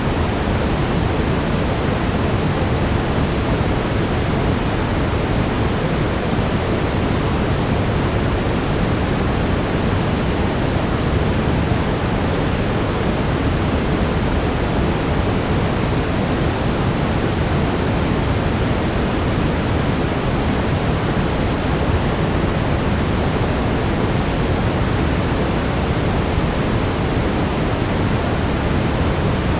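Steady brown noise: a deep, even rushing hiss, heavier in the low end, with no change throughout.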